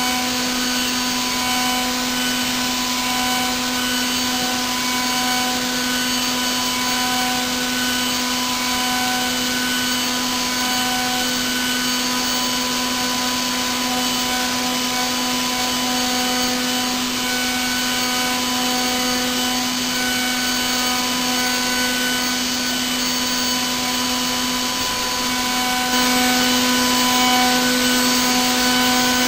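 Milling machine cutting a 6 mm slot in brass at 10 m/min feed: a steady high-speed spindle hum with a constant pitched note and a hiss of cutting noise. It gets louder for the last few seconds.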